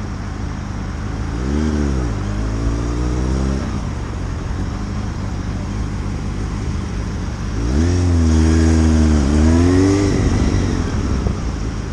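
Motorcycle engine accelerating twice, its pitch rising, holding and then falling; the second time is louder and longer. Underneath runs a steady low road rumble.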